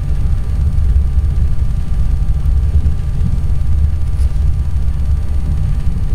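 Steady low rumble of a passenger train running at speed, heard from inside a dining car, with faint steady hum tones over it.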